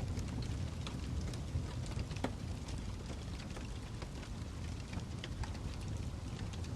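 Wood fire in a fireplace burning steadily with a low rumble, dotted throughout with sharp crackles and pops from the burning logs, a louder pop about two seconds in.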